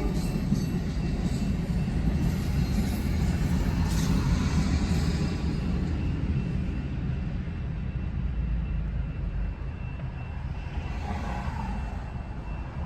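Amtrak passenger train rumbling steadily as it pulls away, slowly fading, heard from inside a car stopped at a red light.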